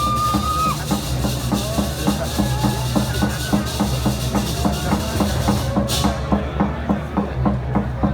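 Balinese gamelan procession music, with drums beating a fast, even rhythm of several strokes a second. A bright, shimmering cymbal-like layer over it stops about six seconds in.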